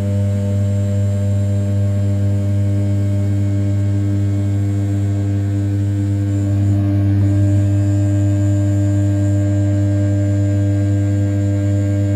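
The 500 W brushless spindle of a desktop CNC mill turns at 6000 rpm while rough-milling the outside of an A7075 aluminium block. It makes a loud, steady hum with a strong low tone and a stack of overtones, over a faint high whine.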